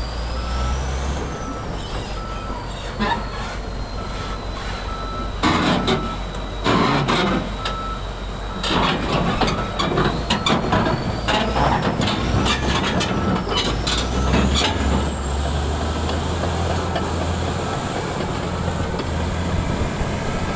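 LiuGong crawler bulldozer's diesel engine running as it drives down off a trailer, with its reversing alarm beeping at an even pace throughout. Bursts of clanking and rattling from the steel tracks and undercarriage come from about five to fifteen seconds in.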